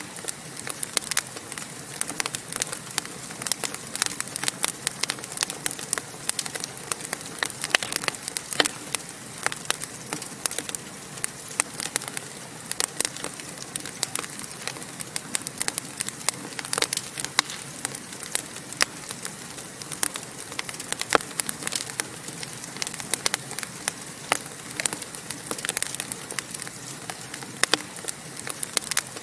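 Wood fire burning in a fireplace, crackling with frequent sharp pops and snaps over a steady hiss of flame.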